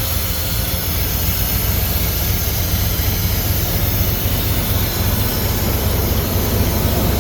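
Ford 460 big-block V8 (7.5 L) running steadily, seconds after catching on its first start following a wiring harness conversion.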